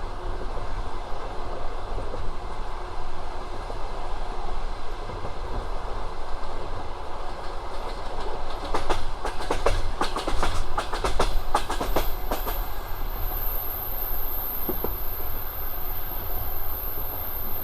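Passenger train running on the rails with a steady rumble and clickety-clack of the wheels, and a dense run of sharp clacks about halfway through. A thin high whine comes in after that and holds to the end.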